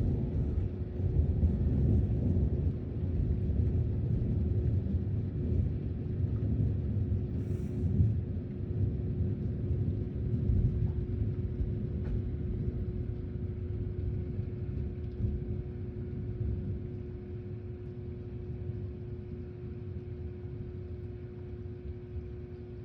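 Thunder rolling: a long, deep rumble that slowly fades over about twenty seconds. A faint steady hum sits underneath.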